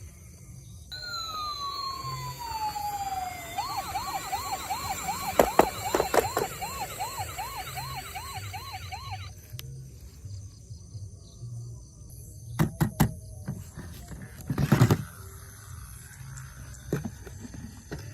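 Toy emergency vehicle's electronic siren: a tone gliding down, then a fast up-and-down warble about three times a second, cutting off about nine seconds in. A few sharp knocks follow, the loudest about fifteen seconds in.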